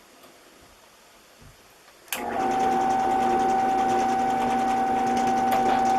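Drill press switched on about two seconds in, its motor then running steadily with a constant whine.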